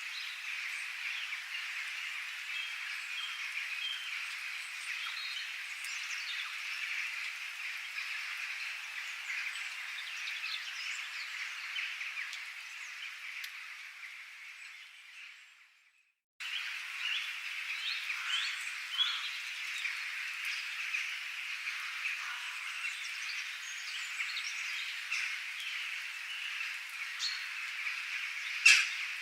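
Dense chorus of calling frogs with chirping birds, a steady mass of small high calls. It fades out about halfway through, drops out for a moment, then comes back abruptly at full level. One sharp, loud chirp or click stands out near the end.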